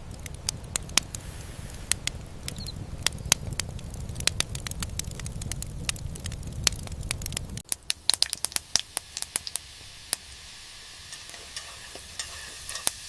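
Cooking sounds of frying: sharp crackles and pops over a low rumble, changing abruptly about seven and a half seconds in to a thinner, higher sizzling hiss with scattered pops.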